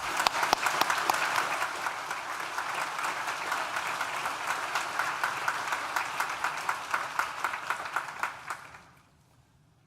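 Audience applauding, many people clapping together, fading out about a second before the end.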